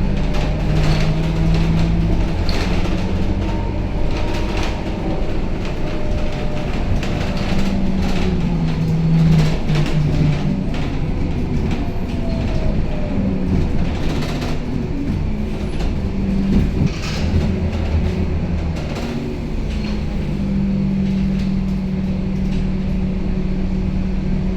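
Scania K270UB city bus heard from inside the cabin while under way. The diesel engine runs steadily, its pitch shifting several times as the bus speeds up and eases off, over frequent rattles and knocks from the body and fittings.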